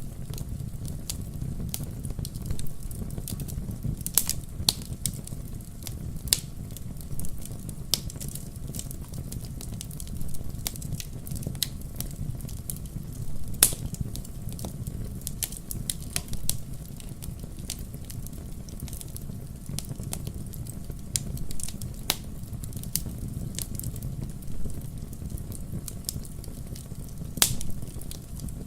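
Campfire burning with a steady low rumble of flames and irregular sharp crackles and pops of burning wood, a few louder pops standing out.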